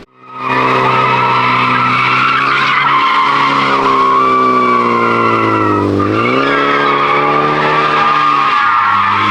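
A V8 muscle car doing a burnout or donut: the engine held at high revs while the rear tyres squeal continuously against the pavement. About six seconds in, the revs dip briefly and climb back up, the squeal following.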